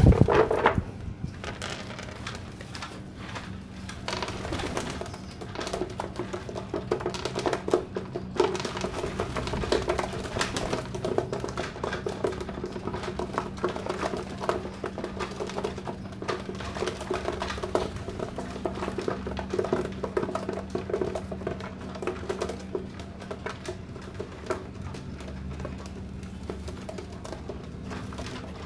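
Domestic pigeons cooing over and over, in low throaty pulses, with scattered light clicks and a steady low hum underneath.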